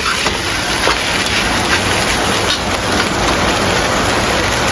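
Vegetables and noodles sizzling in hot oil in a pan: a loud, steady frying hiss.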